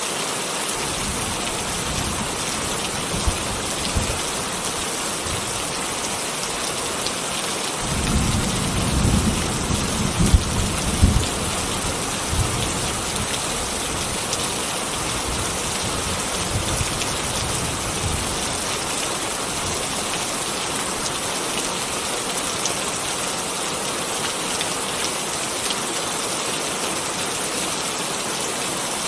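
Steady rain falling, with a low rumble of thunder that swells about eight seconds in and dies away a few seconds later.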